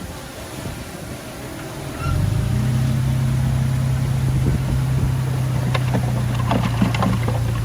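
Heavy machine's diesel engine, which grows suddenly louder about two seconds in and then runs steadily under load. Metallic clanks and rattles join it from about six seconds in.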